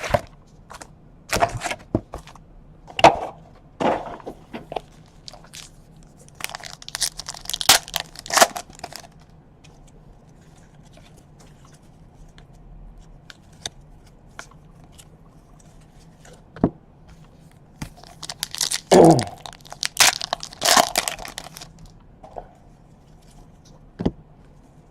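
Baseball card packs being opened and handled: foil wrappers crinkling and tearing in clusters of short crackles and clicks, with a quieter stretch in the middle and another burst of crinkling near the end.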